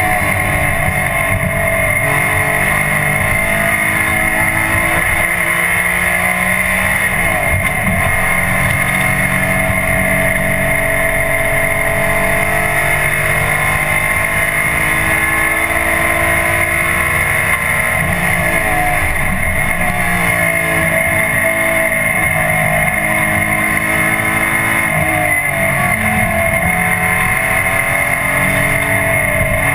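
Audi 4000 quattro race car's engine heard from inside the cabin, running hard on track; its pitch drops and climbs again about four times as the driver lifts or changes gear, over a steady high whine. The engine is down on power: it turned out to have two broken pistons.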